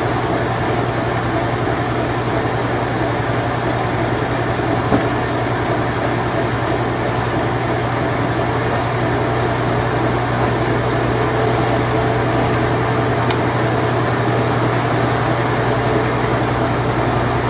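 Late-1980s Whirlpool Imperial Clean Touch washing machine running its spin cycle: a steady low hum over an even rushing noise, with a small click about five seconds in.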